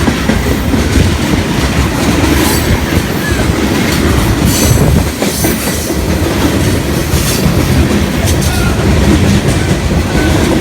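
Freight train's cars rolling past close by: a loud, steady rumble with the wheels clacking over rail joints.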